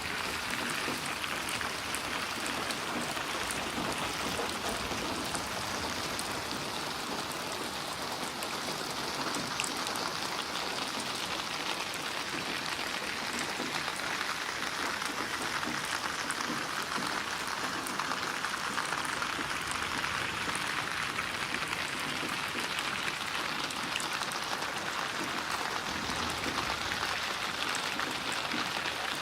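Steady rain falling, an even hiss with fine scattered drop patters.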